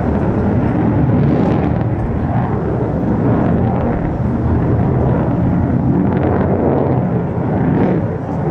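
Loud, steady jet rumble from an F-35A's single F135 afterburning turbofan during a low flying display pass, with a faint crackle in the upper range.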